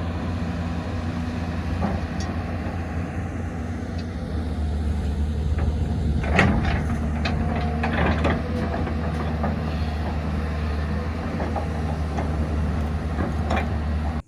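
A motor vehicle's engine running steadily with a low drone, with a cluster of rattles and knocks a little past the middle.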